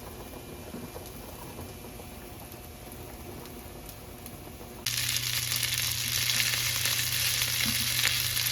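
Food frying in a hot pan, sizzling and crackling steadily. About five seconds in it jumps suddenly louder, with a low steady hum underneath.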